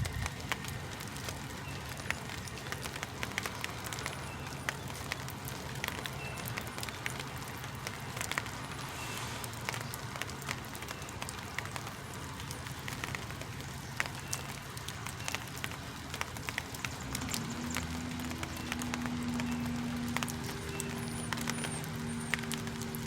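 Diesel engine of a parked semi truck idling steadily, with a low hum and a constant light ticking clatter. About three-quarters of the way in, a second, higher steady hum joins the idle.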